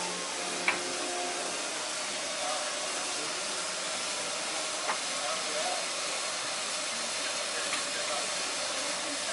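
Steam locomotive hissing steam steadily, with a sharp click about a second in and another near the middle.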